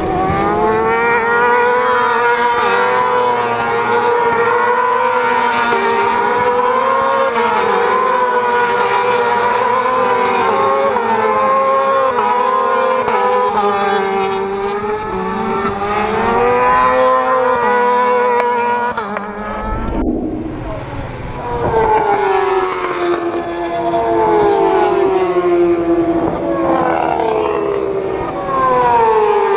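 Several supersport racing motorcycles with four-cylinder engines running at high revs together, a shrill whine whose pitches waver up and down with the throttle. About twenty seconds in the sound changes suddenly, and bikes go by one after another, each with a falling pitch.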